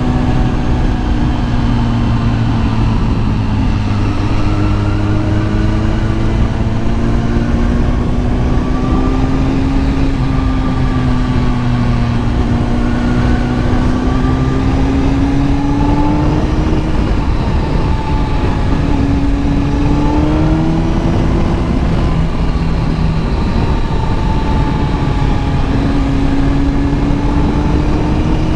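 Kawasaki ZX10R's inline-four engine running under way, its pitch rising and falling gently as the speed changes, over a steady low rumble.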